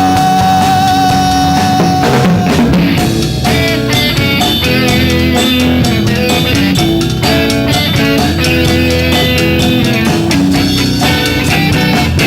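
Live rock band playing an instrumental stretch on guitar and drum kit, with a long held note in the first two seconds.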